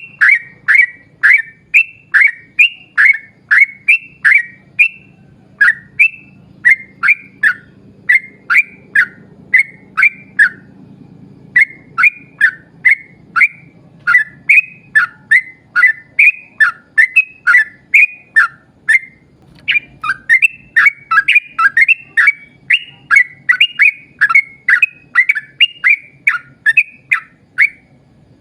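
Yellow-vented bulbul (trucukan) song: a long, fast run of loud, short whistled notes, each falling sharply in pitch, about three a second. It breaks off twice for about a second, once a third of the way in and again near two-thirds.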